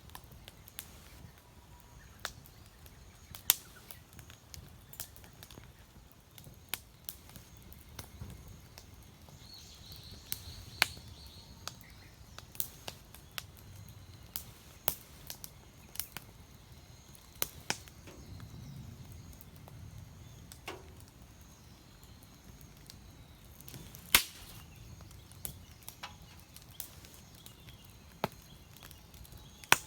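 Firewood burning in a campfire, crackling with sharp, irregular pops and snaps, the loudest about 24 seconds in, over a faint steady hiss.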